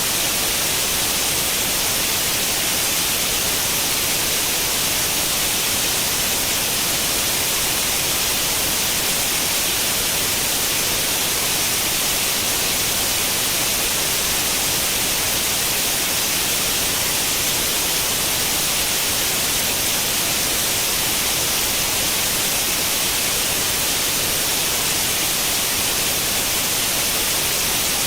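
Steady white noise in the style of an untuned analogue television's static, an even hiss strongest in the upper range, unchanging throughout.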